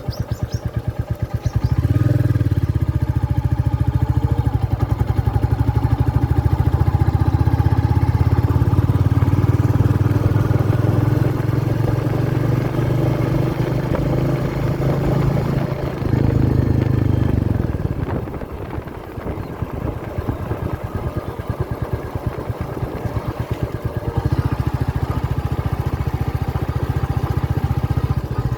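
Royal Enfield Meteor 350's single-cylinder engine running with a steady, even firing pulse. The engine note gets louder about two seconds in, eases off for several seconds past the middle, and picks up again near the end.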